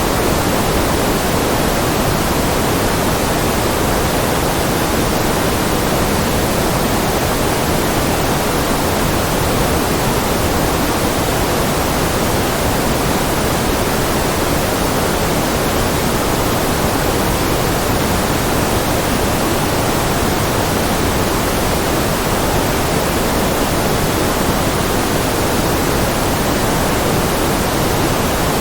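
Continuous white noise: an even, unchanging hiss spread across the whole range from low to high, with no variation in level.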